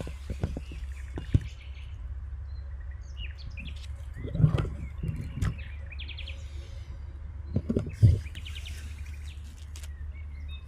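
Small birds chirping and calling in a forest, with a steady low rumble underneath. Two loud dull thumps come about four and eight seconds in.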